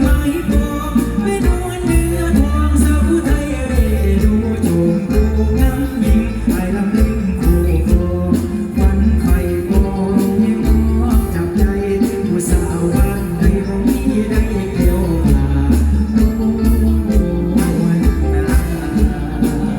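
Live mor lam band music played loud, with a steady drum beat and heavy bass.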